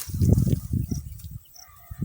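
Footsteps crunching and rustling through dry grass, a quick run of low strokes that fades out about halfway through, followed by a faint animal call near the end.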